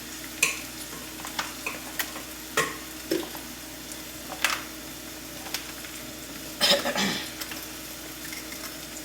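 Peppers sizzling steadily in a skillet, with scattered clicks and knocks of kitchen utensils and containers; the loudest knocks come together about seven seconds in.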